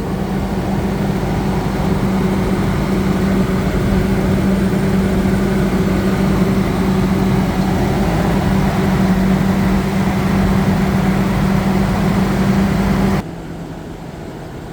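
Motorhome engine idling steadily with an even, low hum. About thirteen seconds in, the sound drops suddenly to a quieter version of the same hum.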